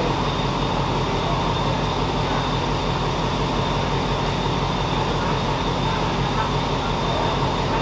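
Steady mechanical hum of a train with a constant droning whine, with no clear rail clatter or other events.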